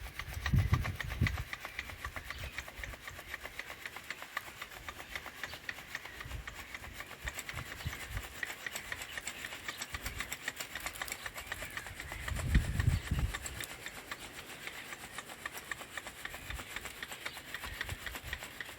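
Sand being sifted through a mesh sieve: a steady, fast rasping scrape. Two dull low thumps come about a second in and again about twelve seconds in.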